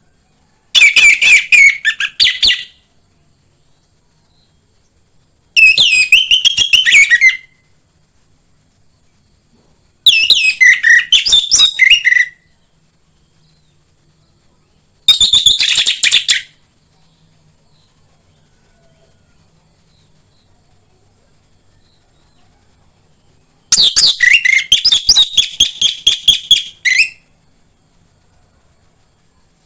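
Orange-headed thrush (anis merah) singing loud, varied whistled song phrases, five in all, each a couple of seconds long with pauses between and the longest pause before the last. A faint steady high hiss runs underneath.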